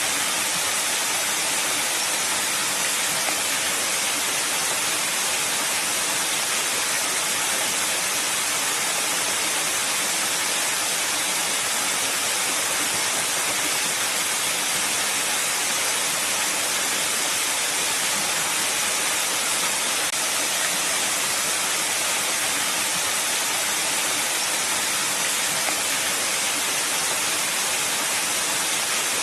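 Water rushing against rocks: a steady, unbroken hiss that does not change.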